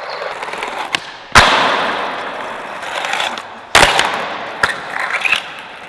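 A skateboard rolling on bare steel bearings instead of wheels, making a rough, hissing grind across the ground, broken by two loud sharp clacks of the board striking the ground, about a second and a half in and near four seconds in, and a lighter knock soon after.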